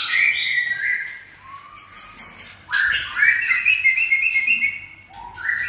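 White-rumped shama (murai batu) singing: a string of clear whistled notes and short slurs, with a quick run of repeated notes about halfway through and a brief pause near the end.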